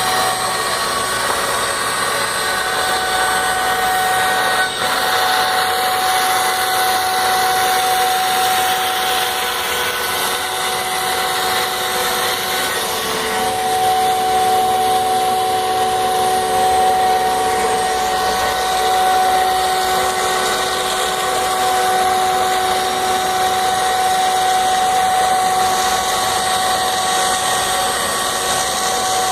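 CNC router spindle cutting acrylic (plexiglass) sheet: a steady whine of several pitches over a loud continuous cutting hiss, with a brief dip about five seconds in.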